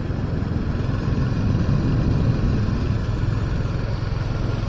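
Royal Enfield Hunter 350's single-cylinder engine running steadily under way, a low even rumble mixed with road noise.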